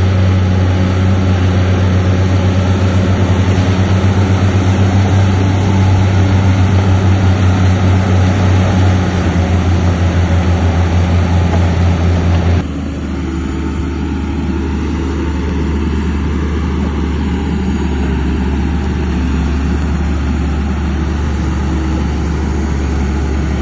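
Heavy earthmoving machine's diesel engine running with a throbbing low hum. About halfway through it changes abruptly to a quieter, steadier low drone.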